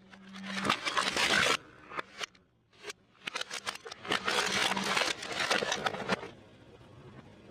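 Car tyre rolling over and crushing food: two long crackling, crunching passes with a few sharp cracks between them.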